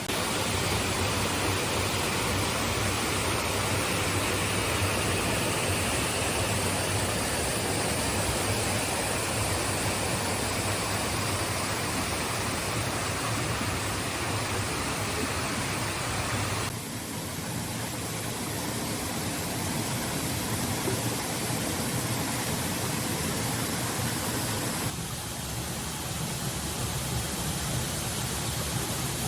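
Steady rushing noise of water, falling or running, with no voice. It changes sharply in tone twice, about 17 and 25 seconds in.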